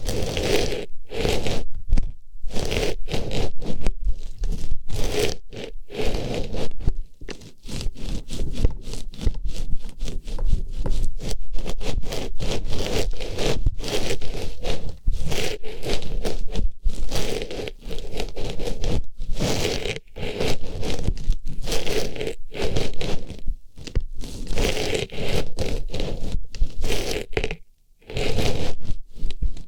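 Artificial flower pushed into and rubbed around an ear for ear-cleaning ASMR, close up: continuous scratching and rustling with short breaks every second or two, and a longer break near the end.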